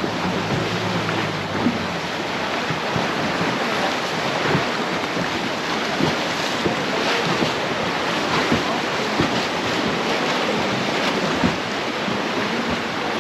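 Wind buffeting the microphone over sea waves on open water, with irregular gusts; a low steady hum fades out about a second in.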